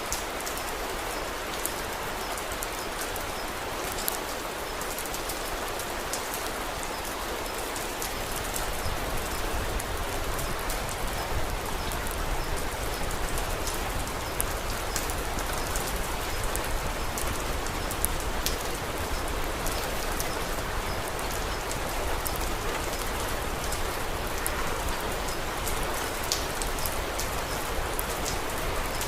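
Steady rain falling, with scattered sharp ticks over it. About eight seconds in a low rumble joins and the whole grows a little louder.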